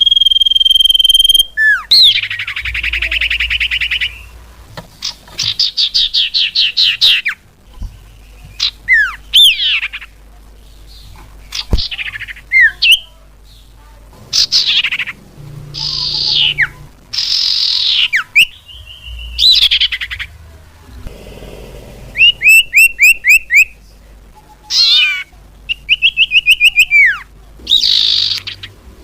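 Common iora (cipoh) calls and song played loud as a lure recording: a held whistle at the start, then fast chattering trills, repeated downslurred whistles and rapid runs of sharp notes with short gaps between phrases.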